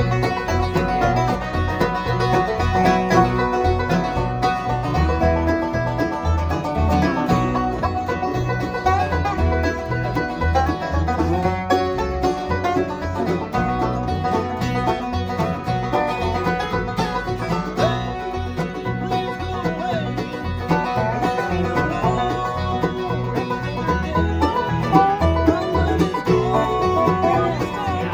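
Bluegrass band playing an instrumental passage, banjo picking to the fore with guitar and a steady, pulsing bass line underneath.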